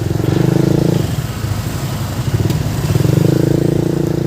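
Motorcycle engine running close by with rapid, even firing pulses. It is louder for the first second, eases off, then swells again from about three seconds in.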